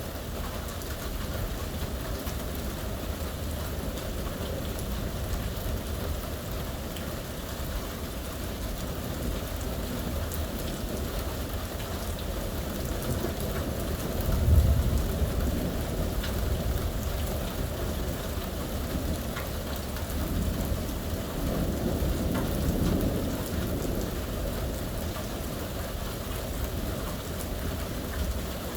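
Steady rain from a thunderstorm, with a sudden loud clap of thunder about halfway through and a longer low rumble of thunder a few seconds after it.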